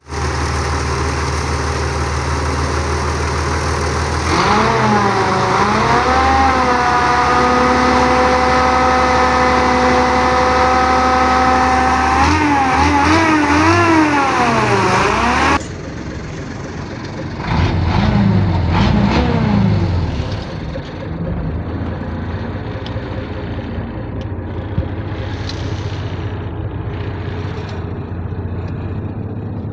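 Bedford truck engine idling, then revved up and down several times, held at a steady higher speed for a few seconds, and blipped quickly before settling back to a steady idle.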